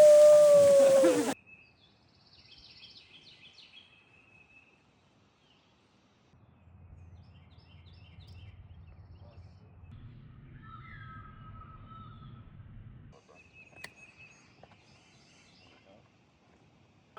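A loud rushing noise with a held, slightly falling tone cuts off abruptly about a second in. Then faint bird chirps over a low rumble.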